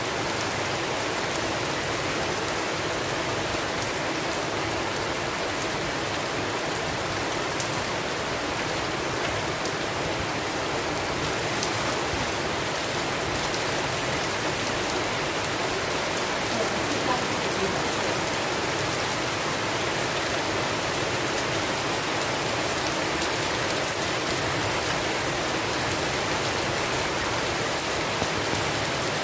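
Steady rain from a rainstorm, an even hiss of falling rain with scattered drop ticks.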